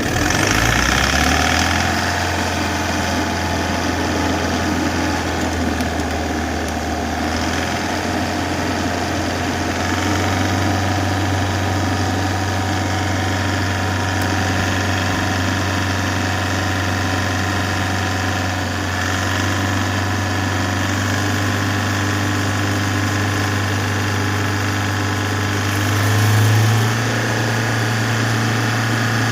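Force Traveller BS6 diesel engine running at idle. Its idle speed steps up a couple of times, and there is a brief rise in revs near the end.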